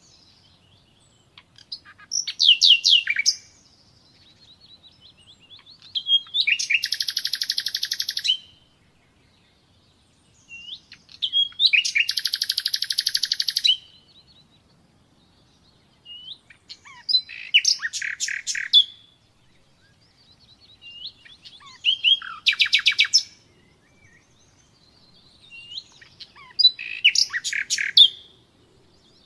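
Nightingale singing: six separate song phrases of rapid repeated notes and fast buzzing trills, each a second or two long, with pauses of a few seconds between them.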